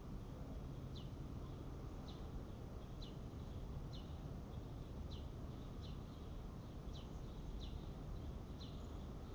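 A bird calling repeatedly: short, high, downward-sweeping chirps about once a second, over a steady low background rumble.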